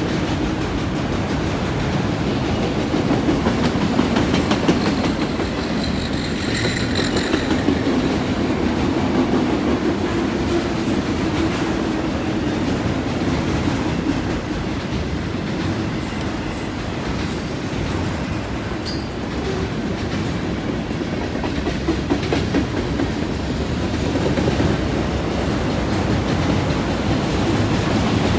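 Freight cars rolling past, their steel wheels clicking steadily over rail joints and the junction switch, with a faint brief wheel squeal about six seconds in.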